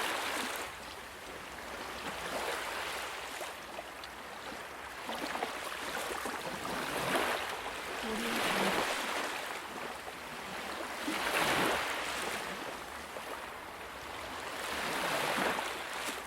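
Ocean waves breaking and washing up the shore, the surf swelling and easing every few seconds.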